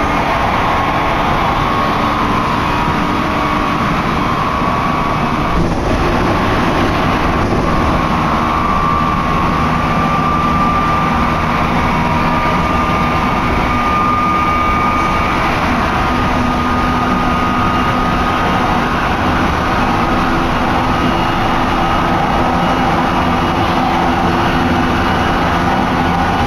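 Tsukuba Express commuter train running between stations, heard from inside the car: a steady rumble of wheels on rail with a whine that rises slowly in pitch through the first half as the train gathers speed, then holds level.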